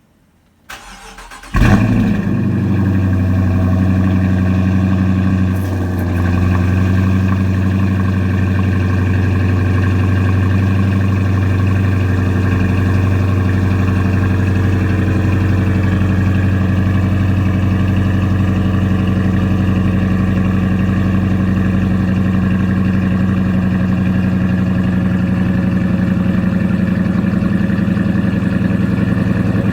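Cold start of a 2018 Dodge Charger R/T's 5.7 L HEMI V8 breathing through a Spintech 6000 mid muffler with the resonator deleted. The starter cranks for about a second, the engine catches with a loud flare, then it settles into a steady, deep idle.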